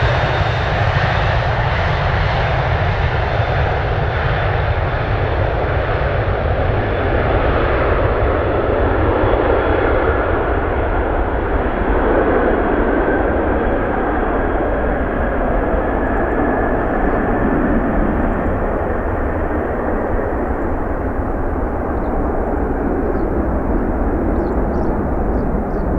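Boeing 767-300ER jet airliner's twin engines roaring steadily after takeoff, the plane receding: the higher hiss slowly dulls away while the deep rumble holds.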